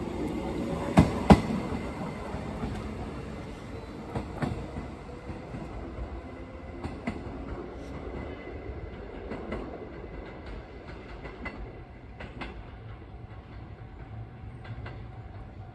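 Kintetsu 6432-series train pulling away, its wheels clacking over the rail joints. Two sharp clacks about a second in are loudest; after that, scattered clicks over a running rumble that fades as the train draws away.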